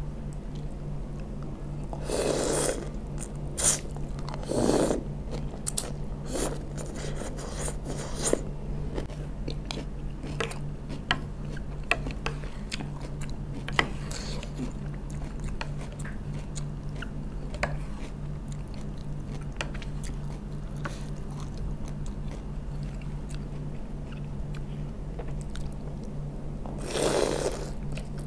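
Close-miked chewing and crunching of a pickled vegetable salad (raw cucumber, cabbage and crackers in sauce), with many small wet mouth clicks and a few louder mouthfuls about two, five and twenty-seven seconds in. A steady low hum runs underneath.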